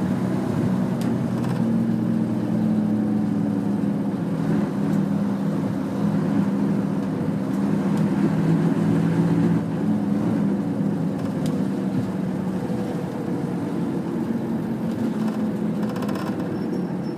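Nissan Diesel UA city bus (KL-UA452KAN) heard from inside the cabin, under way with its diesel engine droning steadily at speed. The drone eases slightly in the second half.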